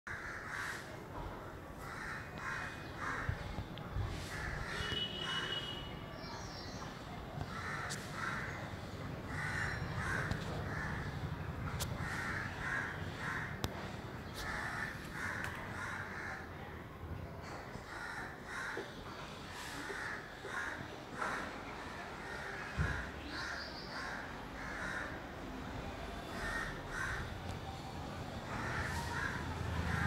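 Birds calling again and again in short runs of two to four harsh notes, with a few higher, thinner notes now and then, over a low steady background rumble.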